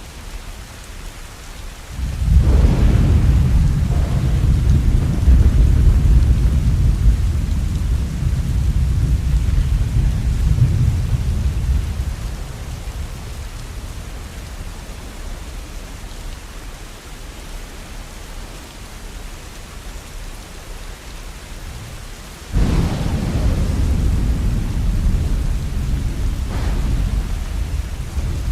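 Steady rain falling, with two rolls of thunder: a low rumble breaks in suddenly about two seconds in and slowly dies away over some ten seconds, and a second one breaks in near the end.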